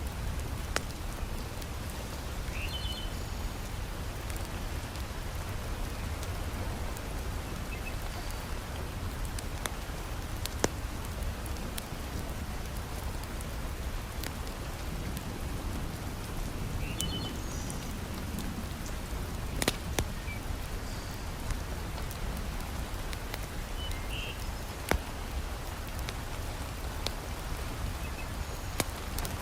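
Heavy rain falling steadily, with a few sharp pops from a crackling wood fire and some faint, scattered high bird chirps.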